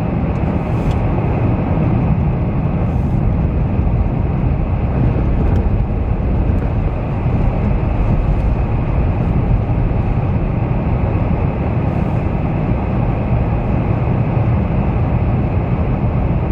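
Steady low rumble of a moving vehicle heard from inside the cabin: engine and tyre noise on the highway, with a few faint ticks.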